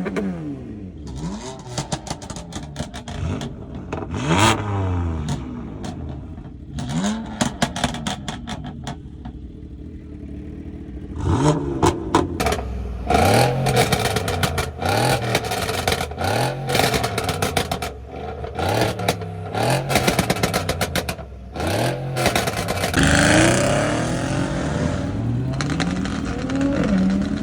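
A performance car's engine revved again and again with crackles and pops from the exhaust: a few rising revs, then a quick run of about seven short blips of the throttle, then held at higher revs near the end.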